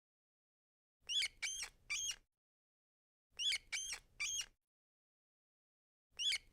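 Rat squeaking: three quick high squeaks in a row, the group repeated three times about every two and a half seconds, with silence between.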